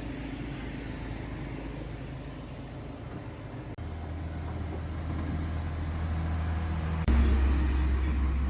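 Steady low hum of a running motor or engine. It breaks off for an instant and returns stronger about four seconds in, then steps up abruptly in loudness about a second before the end.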